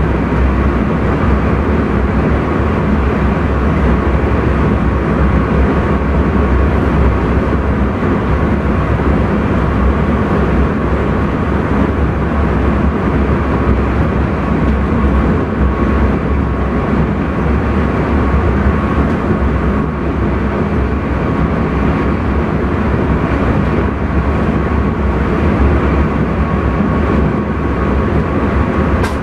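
Intercity train running steadily at speed, heard from inside the driver's cab: a continuous rumble of wheels and running gear with a thin steady whine.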